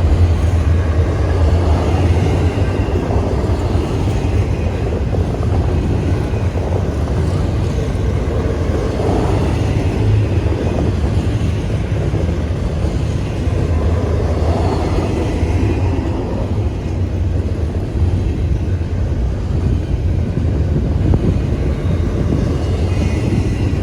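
Freight train rolling past with a steady low rumble that does not let up.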